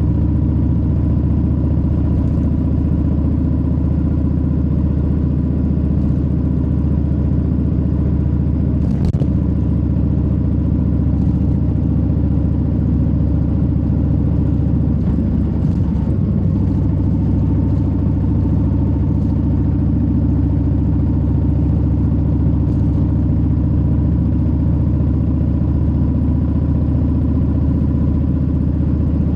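A 2022 Harley-Davidson Low Rider S's Milwaukee-Eight 117 V-twin running steadily under way, its low exhaust note holding even. About halfway through the engine's pitch wavers and settles at a new level, and there is a single sharp tick about nine seconds in.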